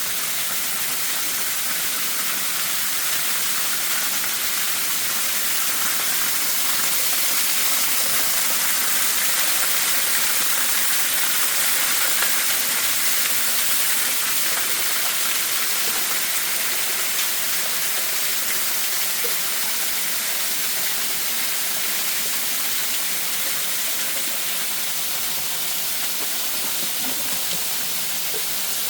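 Waterfall: a steady rushing hiss of falling water, swelling slightly in the middle.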